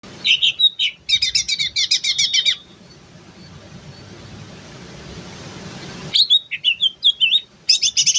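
Cucak ijo (green leafbird) chattering in rapid bursts of high, quick-repeating notes and slurred whistles. Its song stops for a few seconds midway, then starts again.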